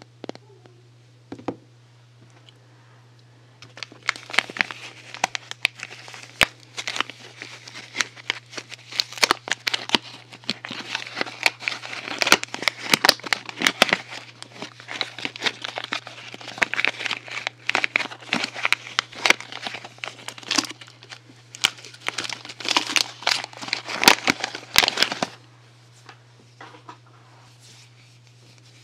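Crinkly soap packaging being handled and torn open: a dense run of crackling and tearing that starts about four seconds in and stops a few seconds before the end, with a steady low hum underneath.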